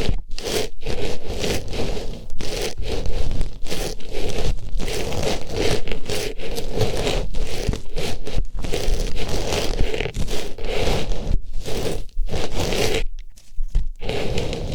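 An artificial rose pushed into an ear and worked around close to the microphone: dense rustling and scraping in quick irregular strokes, with short breaks and a longer pause near the end.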